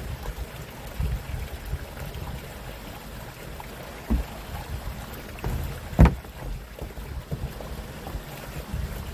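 Wind buffeting the microphone on a small fishing boat, a fluctuating low rumble, with a loud sharp knock about six seconds in and a smaller one about four seconds in.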